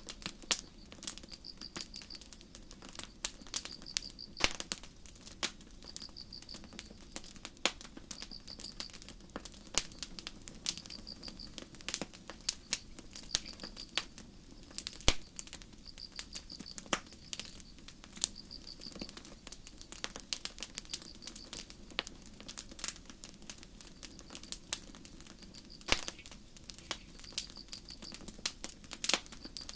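Campfire crackling with sharp, irregular pops, while crickets chirp in short high trills about every second and a half.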